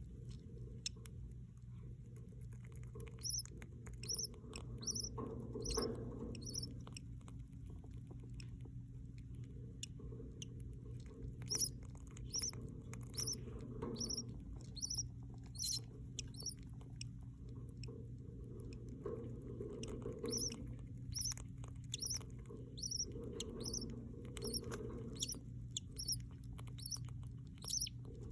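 Baby budgerigar chicks cheeping: short, high peeps repeated one or two a second, over a steady low hum.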